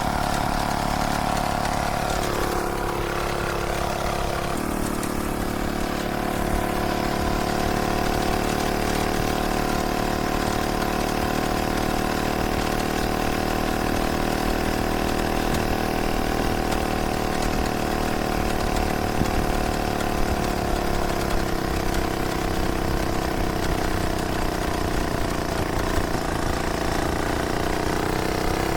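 Small two-stroke engine of a Solex 1700 moped running steadily, its pitch shifting slightly a couple of seconds in and again later on.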